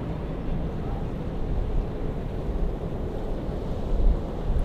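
Wind buffeting the microphone: a steady low rumble that swells in gusts, with a stronger gust about four seconds in.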